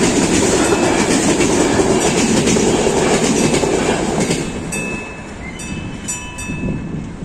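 A passenger train running over a level crossing, its wheels clattering loudly on the rails, with the noise dropping away about four seconds in as the train moves off. As it fades, the crossing's AŽD 71 warning signal bell is heard ringing with repeated strikes.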